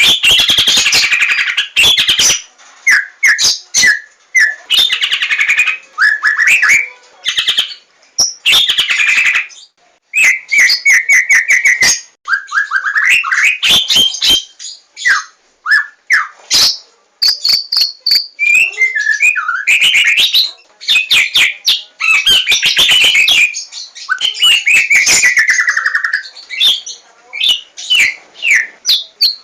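White-rumped shama (Javan murai batu) singing a long, nearly unbroken run of varied phrases: clear whistles that slide up and down in pitch, mixed with fast runs of dry clicking notes.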